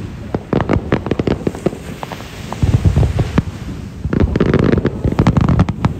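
Aerial fireworks bursting: a rapid series of bangs and crackles, with two dense volleys of overlapping bursts, one about two and a half seconds in and a longer one from about four seconds in.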